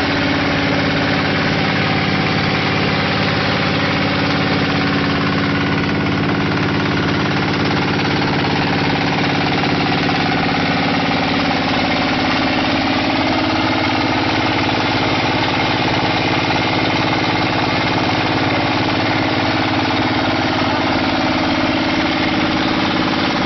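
Small diesel engine of a QT4-30 hydraulic concrete brick machine running steadily. Its hum shifts slightly higher about halfway through.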